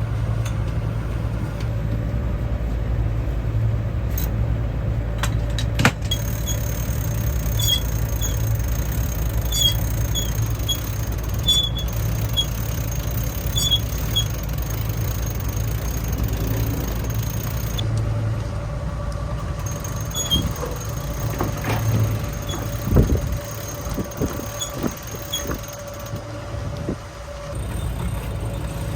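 Yacht's inboard engine running steadily under way, a constant low drone. Intermittent high squeaks and a few clicks come over it from the boat's gear.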